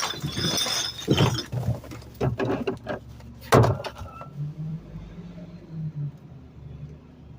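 Trash cracking and breaking as it is crushed in a garbage truck's hopper: a run of sharp crashes, the loudest about three and a half seconds in. After that the truck's engine and hydraulics run on with a low hum.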